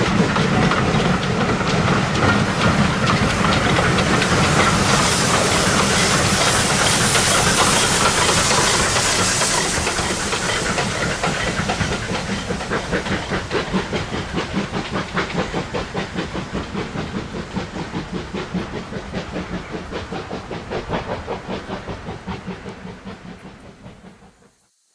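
Steam train running by with a loud hiss of steam, then a steady rhythmic beat that fades as it draws away. The sound cuts off abruptly near the end.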